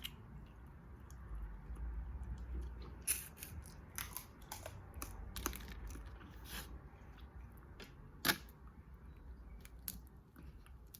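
Close-up eating sounds from a seafood boil: chewing, with scattered sharp cracks and clicks as crab shell is broken apart by hand, the loudest crack about eight seconds in.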